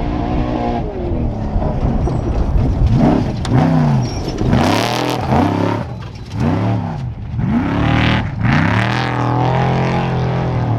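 Off-road race truck engine revved in a series of blips, its pitch rising and falling about six times in quick succession, then holding a steady note near the end.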